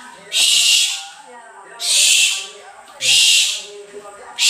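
An owl hissing over and over: loud breathy hisses about half a second long, roughly one a second.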